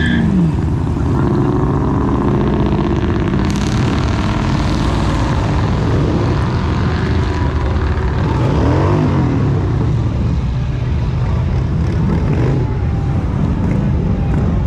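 Cars driving past one after another as they leave, engines running with a steady low rumble, and pitch that rises and falls as each accelerates by, most clearly about nine seconds in.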